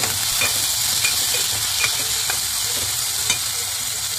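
Green peas and onions sizzling in hot oil in an aluminium pressure cooker while a steel ladle stirs them, scraping and clinking against the pot several times.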